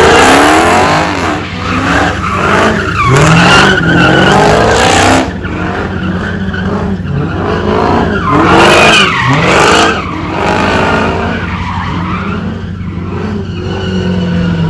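Car tires squealing as the car spins donuts, over a steady engine drone with repeated revs; the squeal comes in loud surges near the start, around four seconds in and again around nine seconds in.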